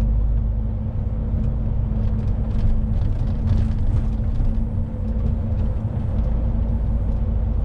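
Lorry driving, heard from inside the cab: a steady low engine and road rumble with a constant hum and scattered light rattles.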